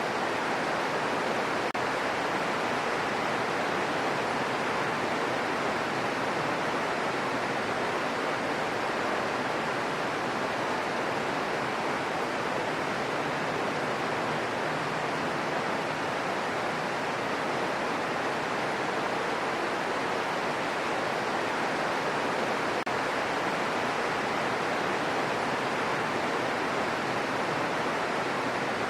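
Steady rain falling, an even hiss that stays the same throughout with no single drops or other sounds standing out.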